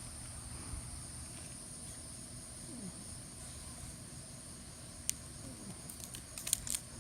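Crickets chirping steadily in the background, with a few sharp snaps of rubber bands being stretched onto a watermelon about five seconds in and again near the end.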